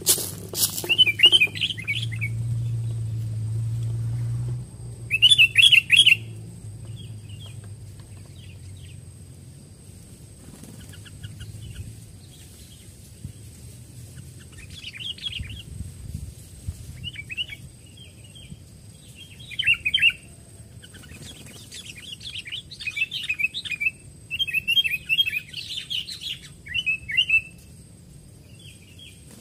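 Sooty-headed bulbuls giving short bursts of chattering calls, coming more thickly near the end. A steady low rumble sounds for a couple of seconds starting about two seconds in.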